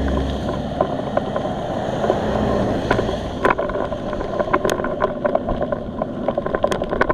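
Bicycle ride on a wet road: steady wind and road noise on the camera microphone, with a low rumble in the first second and irregular small clicks and ticks from about three seconds in.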